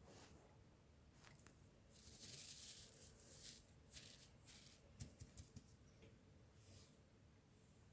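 Faint rustling for a second or two, then a few small clicks about five seconds in, in a quiet small room.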